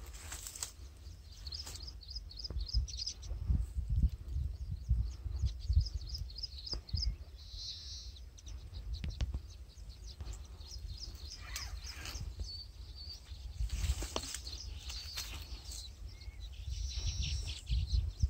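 Small birds chirping in quick repeated series, over a low rumble of wind on the microphone.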